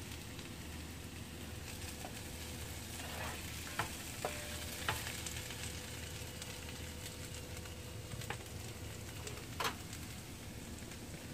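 Sliced potatoes and onions frying quietly in a pan, a steady soft sizzle, while a spatula stirs them, giving a handful of sharp clicks and scrapes against the pan.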